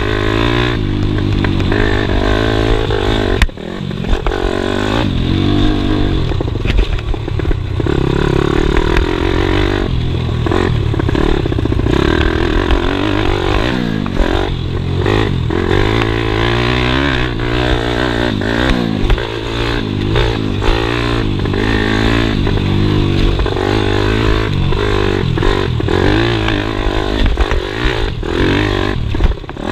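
Pitbike engine revving up and down as it is ridden on a motocross track, with clatter and scraping from the bike; the sound breaks off briefly about three and a half seconds in and again near the end.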